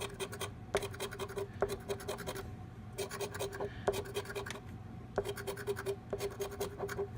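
Scratch-off lottery ticket being scratched in quick back-and-forth strokes, in four runs of rapid scraping with short pauses between them.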